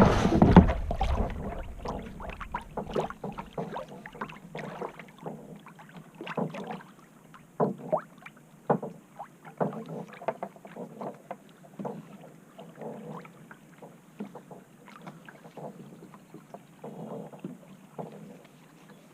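Small irregular splashes and drips of water against a kayak and paddle, with gusts of wind on the microphone at the start.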